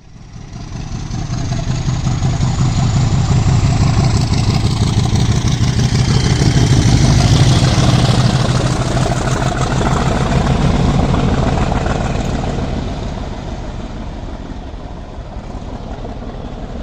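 A train passing close by: a loud, deep engine rumble under a rushing noise. It swells over the first few seconds, peaks about seven seconds in and eases off after about twelve seconds.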